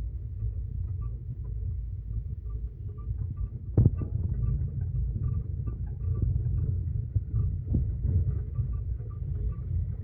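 Vehicle running on a road, a steady low rumble. There is a sharp knock about four seconds in and a lighter one near eight seconds.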